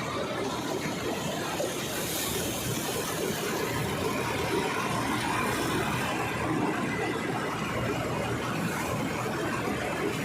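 John Deere 5405 tractor's diesel engine running steadily.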